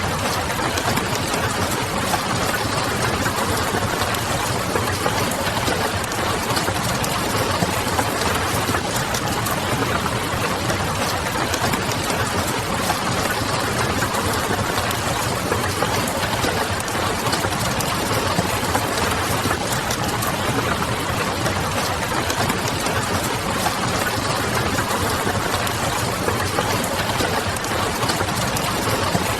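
Steady rain on a window mixed with the crackle of a wood fire: a dense, even hiss flecked with fine ticks, over a faint low hum.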